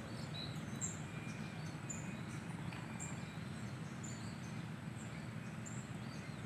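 Small birds chirping in short high notes, about two a second, over steady background noise.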